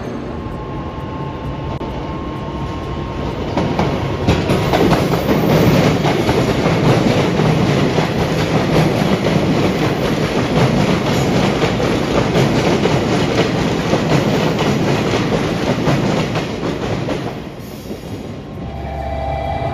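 A train running past on the rails, its noise swelling about four seconds in and dying away near the end, with a steady run of clicks from the wheels.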